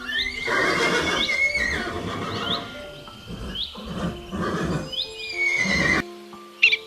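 A loud, drawn-out whinny-like animal call over light background music. It opens with a falling high note, then breaks into several rough, breathy pulses and stops about six seconds in.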